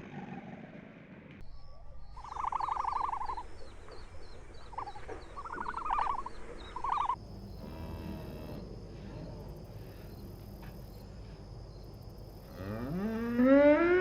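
A few short trilled animal calls early on, then a cow mooing loudly near the end: one long call that rises in pitch and then holds.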